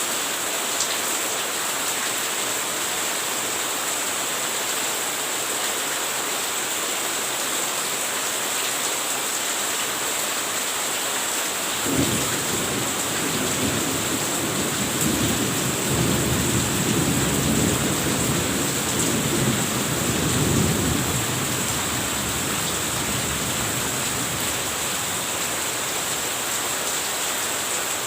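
Steady heavy rain hissing, with a clap of thunder breaking in about twelve seconds in and rumbling on for several seconds before fading back into the rain.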